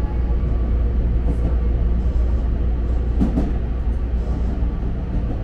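Tobu Urban Park Line electric train running at speed, heard from inside the front car: a steady low rumble of wheels on rail and running gear, with a brief sharper knock about three seconds in.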